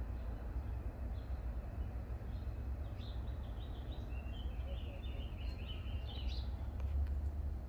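A small bird singing a rapid twittering phrase for a few seconds in the middle, over a steady low rumble.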